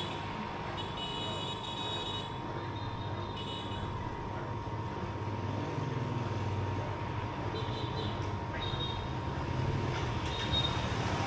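Urban road traffic: a steady low rumble of engines and tyres, with a faint constant tone. Short high thin tones come and go several times.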